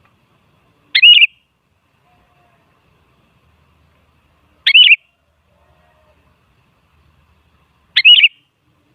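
Sooty-headed bulbul giving three short, bright calls with a quick wavering pitch, spaced about three and a half seconds apart.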